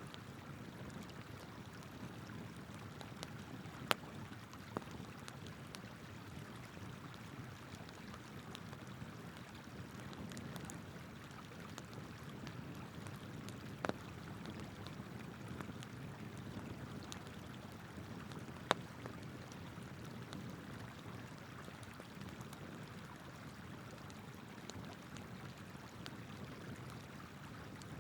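River water flowing steadily, with a few sharp pops and cracks from burning wood in a campfire, the loudest about 4 and 19 seconds in.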